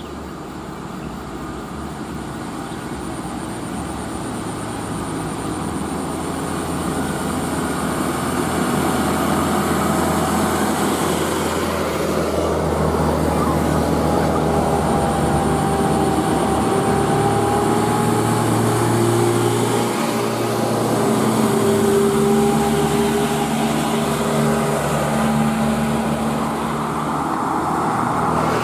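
Heavily loaded truck's diesel engine labouring up a slope. It grows louder over the first several seconds as it approaches, then runs with a steady low note.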